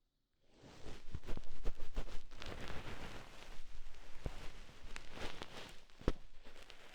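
Close-up ASMR ear-cleaning sounds: an ear-cleaning tool scratching and rustling against the ear, with many small irregular clicks. It starts about half a second in, after a brief silence.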